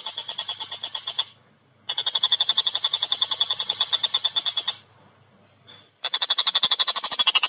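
Tengkek buto (collared kingfisher) giving its fast chattering call, a rapid run of sharp repeated notes at about eight a second. It comes in three bouts, broken by short pauses just over a second in and again near five seconds.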